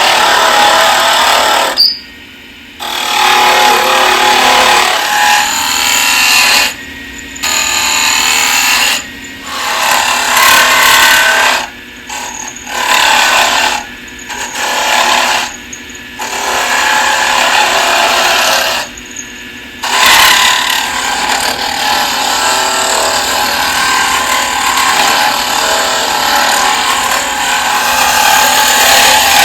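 Wood being turned on a lathe: the cutting tool is pressed to the spinning wood in repeated passes, giving loud noisy cutting broken by short pauses about every two to four seconds, with the lathe's faint low motor hum carrying on through the pauses.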